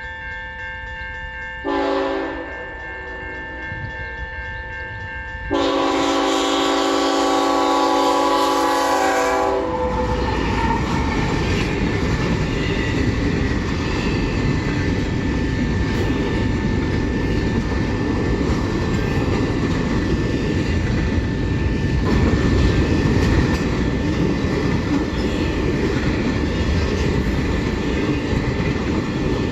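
Locomotive horn sounding a short blast, then a long blast of about four seconds. The train then passes close by, its wheels rumbling and clattering over the rails.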